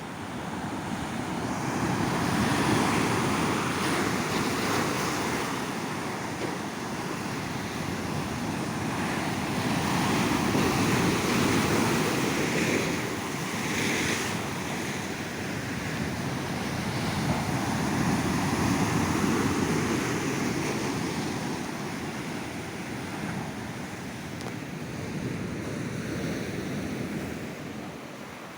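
Ocean waves breaking and washing on a beach, the surf swelling and falling back in slow surges every several seconds, with some wind on the microphone.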